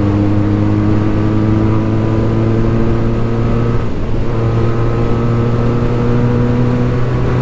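Benelli 302S parallel-twin engine through an aftermarket Yoshimura exhaust at highway cruising speed, its note steady and climbing slightly in pitch, with a brief dip about four seconds in before it carries on.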